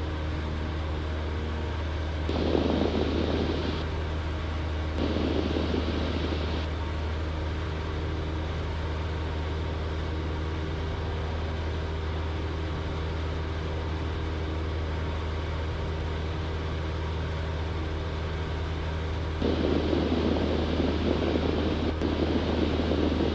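Cessna 172's piston engine and propeller droning steadily in cruise flight, heard from the cockpit. Three brief louder bursts of noise come over it, the last and longest near the end.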